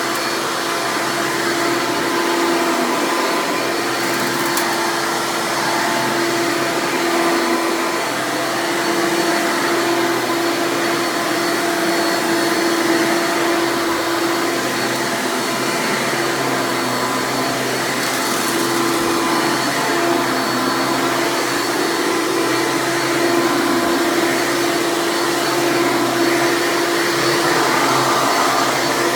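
Hoover Legacy Dirt Finder upright vacuum's 7.2-amp direct-air motor running steadily: a continuous motor whine over the rush of air.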